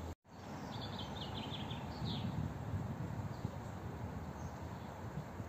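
Outdoor ambience with a small songbird singing a quick run of short high chirps about a second in, and again shortly after, over a steady low background rumble. The sound drops out for an instant at the very start.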